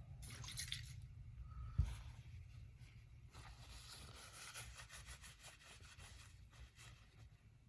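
Faint handling of Andis Master clipper parts as the motor is seated into the housing: light scraping and small clicks, with one dull knock about two seconds in.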